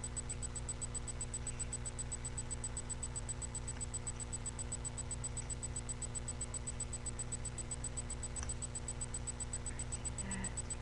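Steady low electrical hum and hiss of a webcam microphone's noise floor, with a fine even ticking in the highs, and a faint brief sound near the end.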